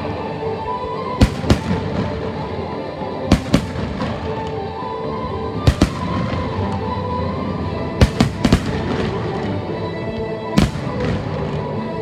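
Fireworks shells bursting in sharp bangs, about ten of them spaced a second or two apart and often in quick pairs, over music that plays throughout.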